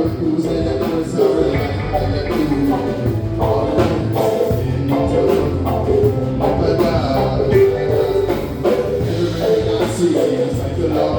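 Live band playing a rock song, with a sung vocal line over electric guitar, bass and drum kit.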